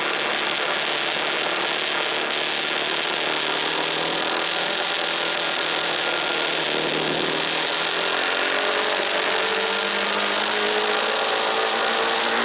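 KTM RC 390's single-cylinder engine pulling along at speed under a steady rush of wind and road noise. About six seconds in the engine note drops briefly, then climbs steadily as the bike accelerates.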